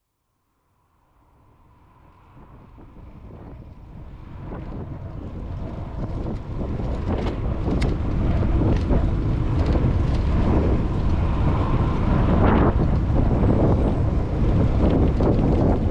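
Wind buffeting a GoPro 9's microphone while riding a bicycle, with a low rumble and scattered clicks and rattles from the bike. The sound fades in from silence over the first several seconds, then stays steady.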